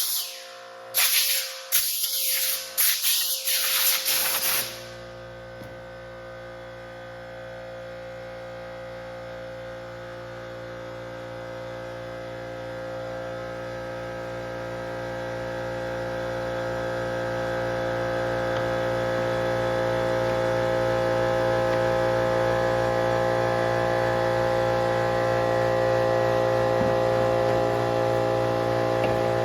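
Echo string trimmer's small two-stroke engine being pull-started: several quick pulls on the recoil starter in the first few seconds, then it catches and runs at a steady idle that slowly grows louder.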